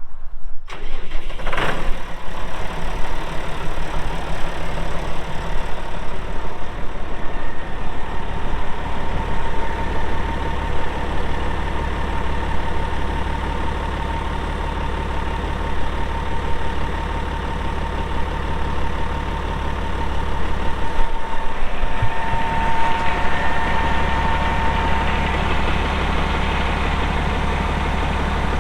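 2002 Challenger MT535 tractor's diesel engine, just fired up and running at a steady idle. Past the middle its note shifts and it runs slightly louder for a few seconds.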